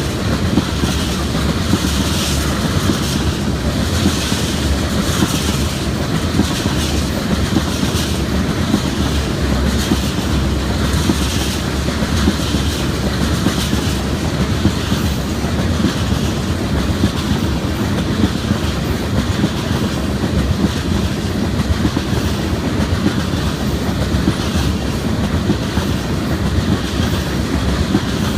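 CSX train rolling past: a steady rumble of steel wheels on rail, with rhythmic clickety-clack as the wheels cross rail joints, more distinct in the first half.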